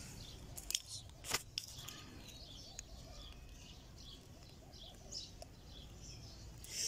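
Small birds chirping faintly and scattered among trees, with a few sharp clicks in the first second and a half.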